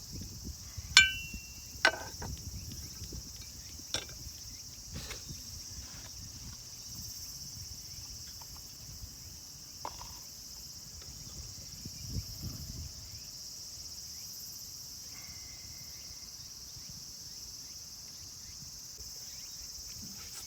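Insects chirring steadily in the grass. Over it come occasional clicks and knocks of gear being handled; the sharpest, about a second in, is a short metallic clink that rings briefly.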